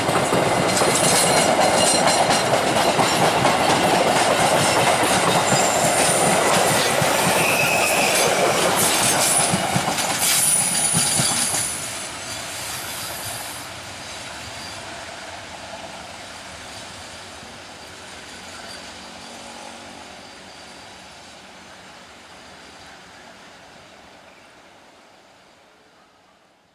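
Passenger coaches rolling past close by, the wheels clattering over the rail joints with brief high wheel squeals. About twelve seconds in the sound drops sharply, then fades steadily as the train rounds a curve and draws away, until near silence at the end.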